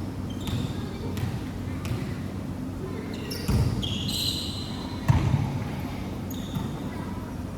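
Basketball game in a gym: the ball bouncing on the court with irregular knocks, short high squeaks from sneakers, and players' voices in the background.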